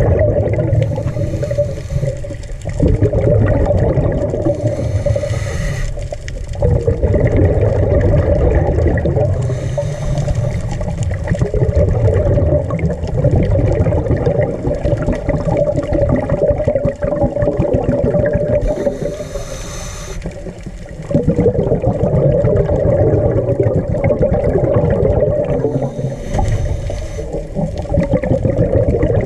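Underwater recording of a scuba diver breathing: a short hiss from the regulator every few seconds, with bubbling and rumbling from the exhaled air in between.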